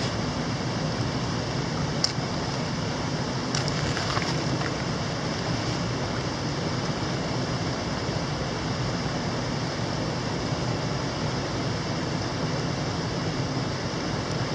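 Steady rush of a mountain stream. A sharp click about two seconds in and a short clatter around four seconds.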